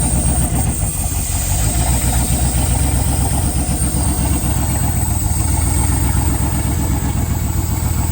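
An old engine running steadily at idle, just fired on a squirt of brake cleaner after long disuse and running on roughly 17-year-old gasoline.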